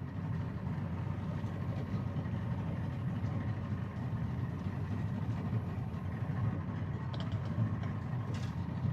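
Boat motor running steadily under light load, a low even drone, while pushing a floating mat of water lilies along.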